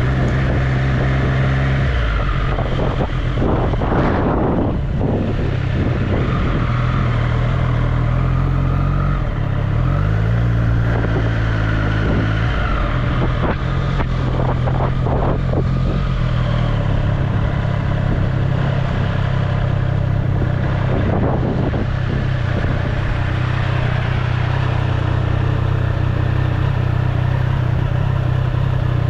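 Triumph Street Triple's inline three-cylinder engine running, mostly steady, with a brief change in pitch about ten seconds in.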